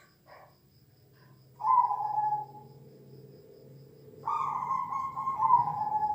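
Zebra dove (perkutut) cooing: a couple of short soft notes at the start, a coo about one and a half seconds in, then a longer coo from about four seconds in that drops in pitch partway through.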